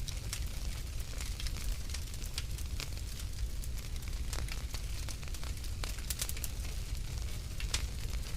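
Wood fire crackling in a fireplace: irregular sharp snaps and pops over a low steady rumble of the flames.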